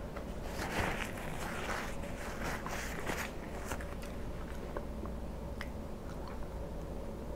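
Close-miked chewing of a mouthful of pancake and egg, with scattered wet mouth clicks. In the first half, a paper napkin rustles for a couple of seconds as it is handled.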